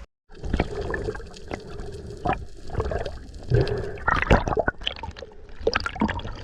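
Sea water splashing and gurgling around a swimmer at the surface, with irregular knocks and sloshes.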